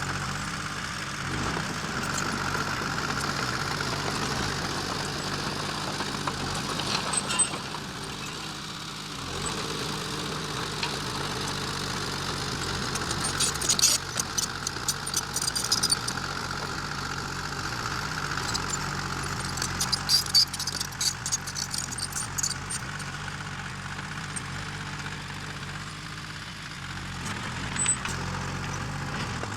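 Diesel engine of heavy earth-moving machinery running steadily with a high whine over it. Several spells of rapid metallic clanking and rattling come and go, the loudest about halfway through.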